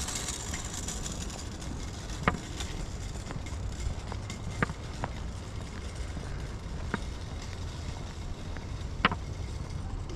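Walking noise picked up by a body-worn action camera on a paved trail: a steady low rumble of wind and movement, with a sharp click about every two seconds.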